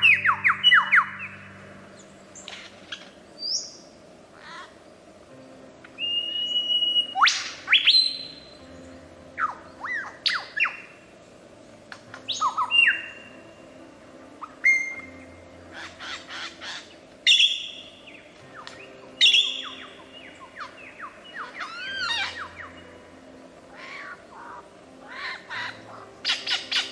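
Several birds calling: quick chirps, sharp notes that slide steeply in pitch, and a few held whistles, over soft, sustained background music.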